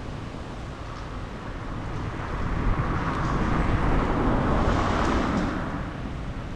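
A car driving past on a wet street: the hiss of tyres on water swells, peaks and fades, over steady wind.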